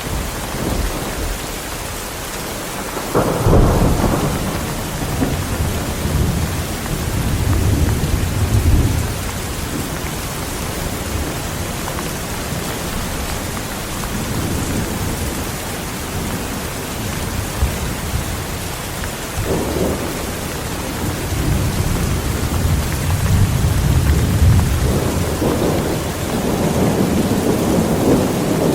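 Heavy rain falling steadily, with rolls of thunder rumbling through it: one starting about three seconds in and lasting several seconds, and another building from about twenty seconds in to near the end.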